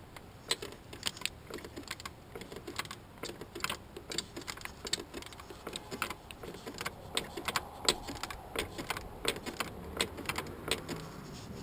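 Irregular clicks and clinks of hand tools on metal: a socket ratchet working engine bolts in short, limited swings.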